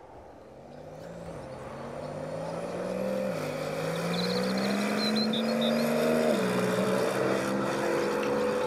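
Car engine accelerating through the gears and growing louder, its pitch climbing steadily and dropping briefly at two upshifts, about a third and two-thirds of the way in.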